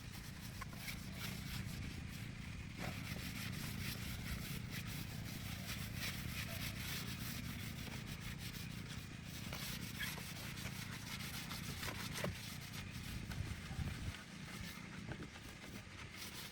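Repeated scraping and rubbing with scattered light clicks, over a steady low hum.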